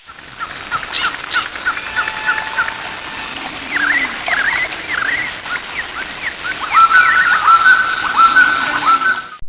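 Several birds chirping and calling over a steady hiss, with quick dipping chirps and, late on, a fast run of repeated whistled notes.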